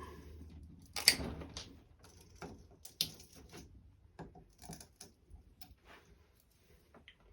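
Sharp snips and clicks of cutters biting through the copper windings of a ceiling fan motor, the loudest about a second in and another about three seconds in, followed by smaller knocks of metal being handled.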